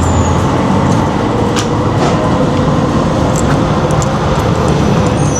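Moving vehicle running, a steady rumble with a faint held tone and light high whines over it.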